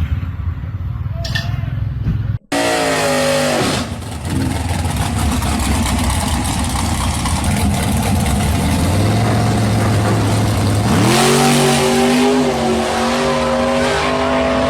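Drag-racing gasser engines running loud. After a short break, the revs fall away; about eleven seconds in, an engine revs up sharply and holds at high revs, as at a drag launch.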